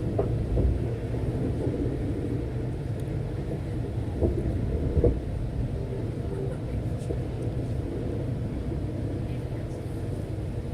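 Steady low rumble of a V/Line diesel-hauled passenger train, with a few faint knocks.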